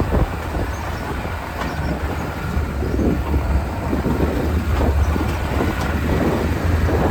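Lada Niva driving over a rough unpaved road: a steady low engine and road rumble with scattered knocks and rattles.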